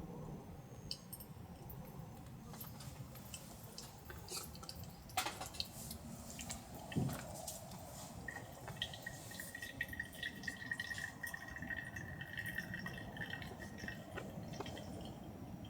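Water dripping and trickling, with small clicks and a couple of sharper knocks; a thin steady tone sounds for about six seconds from about eight seconds in.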